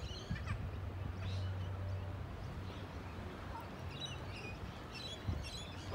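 Birds chirping in short high calls, most of them about four to five seconds in, over a steady low hum.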